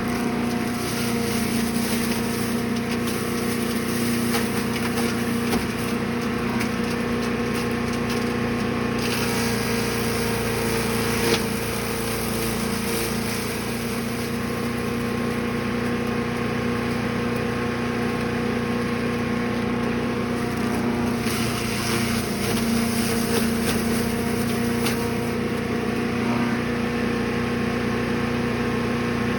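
Brush Master 3-in-1 chipper/shredder's small gas engine running steadily at speed, with a single sharp knock about eleven seconds in.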